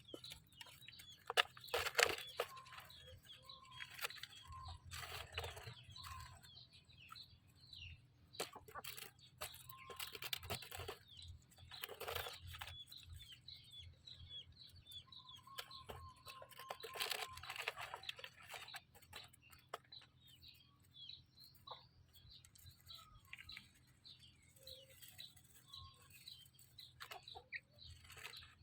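Poultry calling: many short, high peeps of young birds mixed with a few longer, lower clucking calls, with scattered knocks.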